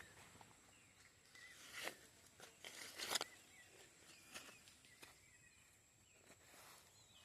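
Faint footsteps on the forest floor, with a few louder crunches about two and three seconds in, and faint short chirps.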